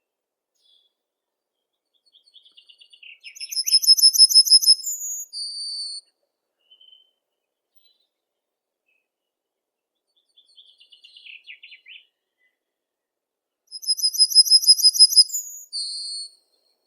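A songbird singing the same phrase twice, about ten seconds apart. Each phrase opens with a soft, lower twitter, then a loud, fast, high trill that ends in two short separate notes.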